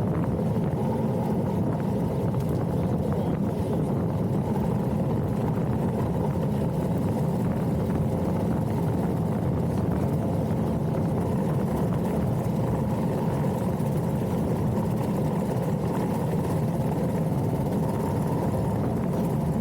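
Motorcycle running at a steady cruising speed, engine and wind rush heard together as a constant muffled drone.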